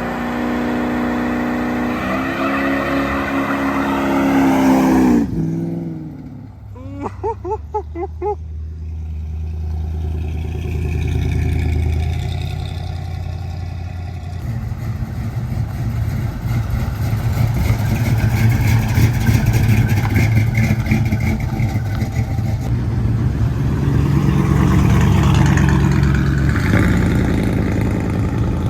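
Car engines revving and driving by. One engine revs up and cuts off about five seconds in, a quick run of short pulses follows, and then a low exhaust rumble swells and fades as cars pull away.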